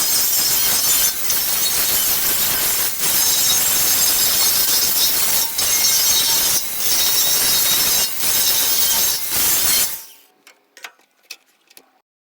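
DeWalt grinder working against a steel tractor tire rim: a loud, harsh, hissy grinding with a few brief dips. It stops suddenly about ten seconds in, leaving a few faint clicks.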